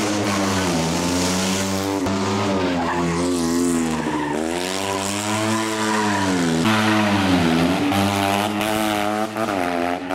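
Fiat 126p rally car's small two-cylinder engine revving hard, its pitch climbing and dropping again several times as the driver accelerates, shifts and lifts through the corners, with an abrupt drop about two-thirds of the way through.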